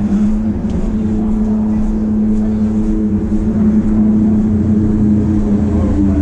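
Engine running at a steady, unchanging pitch, shifting slightly near the end.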